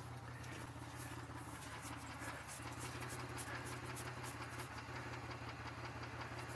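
2002 Chevy Malibu's engine idling steadily with a low, even hum.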